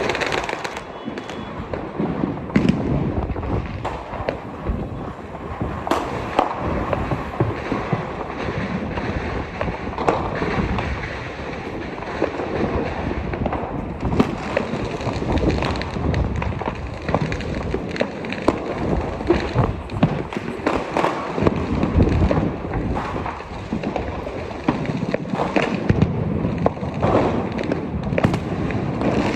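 Fireworks and firecrackers going off almost without pause: many overlapping bangs and crackles, some near and sharp, others further off.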